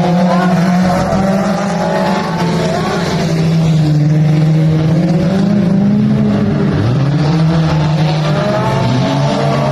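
Dirt-track mini stock race car engines running hard, their pitch rising and falling with the throttle, with more than one engine heard at once.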